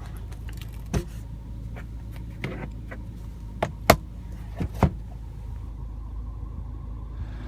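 A handful of short clicks and knocks from the sun visor and its vanity mirror cover being handled in the car's cabin, over a steady low hum.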